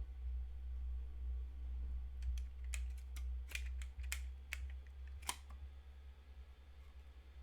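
A quick run of about ten sharp clicks over roughly three seconds, above a steady low rumble.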